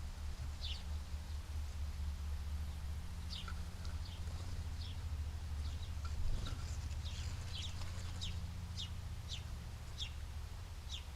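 Small birds giving short, high, downward chirps, about two a second, over a steady low hum.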